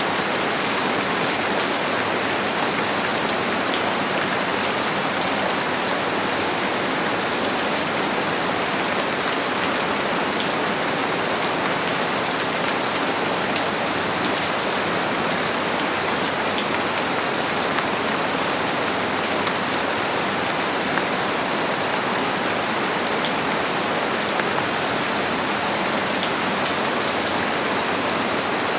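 Steady heavy rain falling, a dense hiss with the patter of many individual drops striking a surface.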